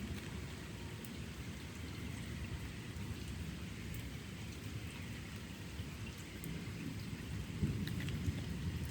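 Steady rain falling during a thunderstorm, with scattered drop ticks and a low thunder rumble underneath that swells a little near the end.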